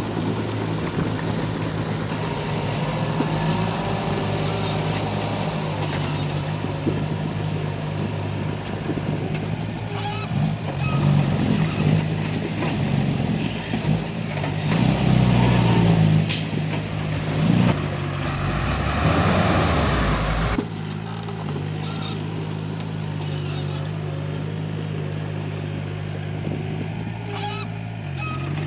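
Komatsu D31P crawler bulldozer's diesel engine running steadily, with a few sharp metallic clanks. It gets louder with scraping and working noise around the middle, then drops back suddenly about two-thirds of the way through.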